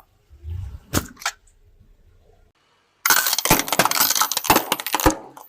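An object being crushed: a dense, loud run of crunching and cracking lasting about two seconds, starting about three seconds in. It follows a low thump and two sharp clicks near the start.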